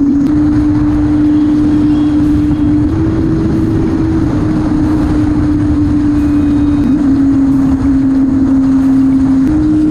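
Inline-four sport motorcycle engine at steady high revs while riding, its pitch shifting slightly up and down a few times with the throttle. A dense rushing noise of wind and road runs underneath.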